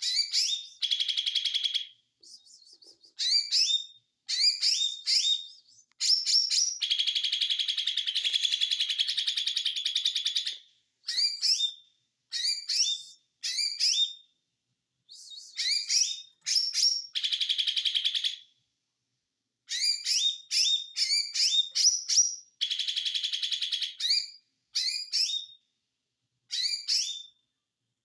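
Lesser green leafbird ('cucak ijo mini') singing. Phrases of quick, sharp chirps alternate with fast buzzing rattles, the 'konslet' (short-circuit) style of song, the longest rattle lasting about four seconds in the first half.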